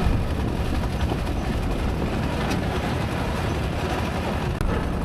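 A moving vehicle's steady rumble of engine and road noise while driving along.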